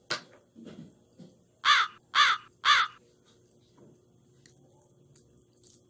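A bird calls three times in quick succession, evenly spaced about half a second apart, a little under two seconds in. A short sharp click comes just before, at the very start.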